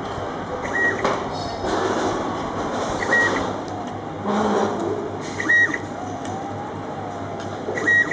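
A short, high electronic beep repeating about every two and a half seconds, four times, over steady machine noise.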